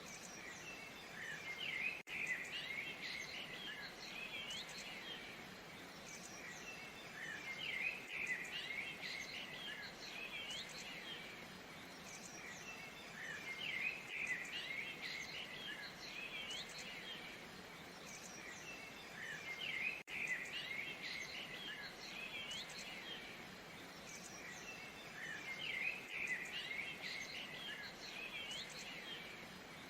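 Steady rush of a waterfall with small birds chirping over it, the chirping coming in bursts about every six seconds.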